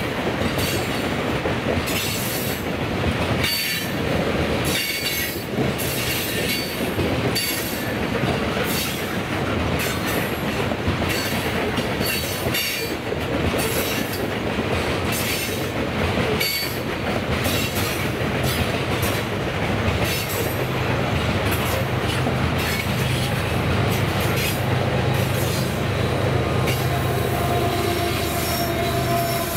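Freight train of hopper cars rolling past, the wheels clicking rapidly over rail joints with now and then a thin wheel squeal. In the last several seconds the steady hum of a BNSF ES44AC diesel locomotive grows in as it comes alongside at the tail of the cars.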